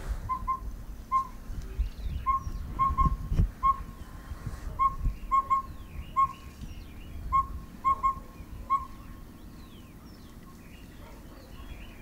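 A bird calling with a clear, short whistled note, repeated in phrases of four: one note, a quick pair, then one more. The phrase comes about three times over and stops near the end.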